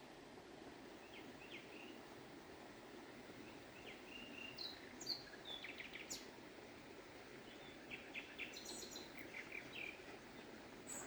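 Steady low rush of a flowing stream, with small birds chirping in short high calls on and off over it, busiest in the middle and later part.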